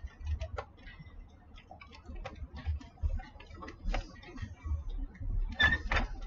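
Plastic building bricks clicking and tapping irregularly as they are handled, over a low rumble of handling noise.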